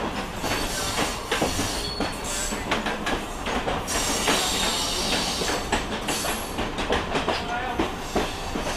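Mumbai suburban electric local train running, heard from inside a coach at the open doorway: wheels clattering over the track with many irregular knocks, and brief high wheel squeals.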